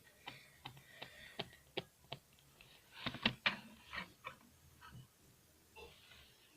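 Light, irregular clicks and taps of a plastic toy doll and its packaging being handled, with a brief cluster of louder clicks about three seconds in.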